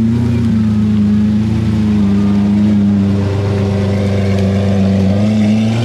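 A car engine running at a steady speed, a loud even drone that shifts pitch only slightly.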